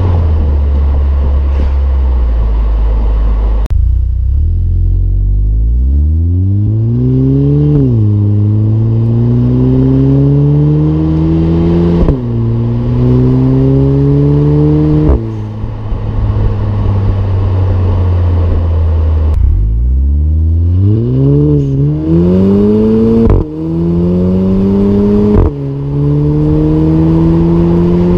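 Turbocharged 2.0-litre four-cylinder of a 2017 VW GTI with aftermarket CTS Turbo exhaust and intake, accelerating hard through the gears. The revs climb and fall sharply at each dual-clutch upshift, three shifts in each of two pulls. Between the pulls the engine runs at steady low revs for a few seconds.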